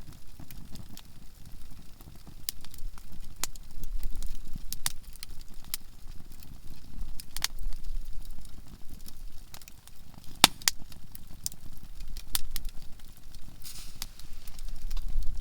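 Conifer firewood burning in a campfire, crackling with frequent sharp pops at irregular intervals, the loudest about ten seconds in, over a low rumble.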